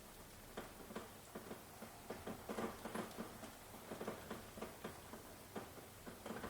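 Light rain, with separate drops tapping irregularly, several a second, over a soft steady hiss.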